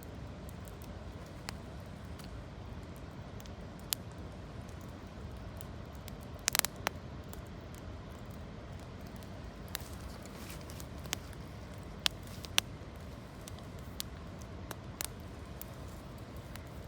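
Campfire of branches and fallen leaves burning, with scattered sharp pops and crackles over a steady low rush; the loudest pops come in a quick cluster about six seconds in and twice more near twelve seconds.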